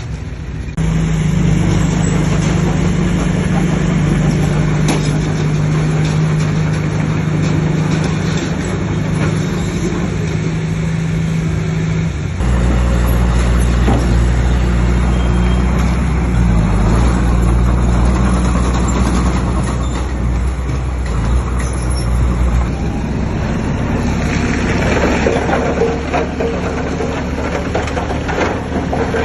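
Bulldozer's diesel engine running hard under load, its engine note shifting to a new pitch several times as the load and throttle change.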